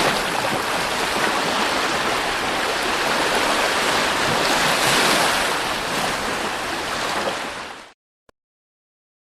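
Sea surf washing on a beach, a steady rushing that cuts off abruptly about eight seconds in, leaving silence.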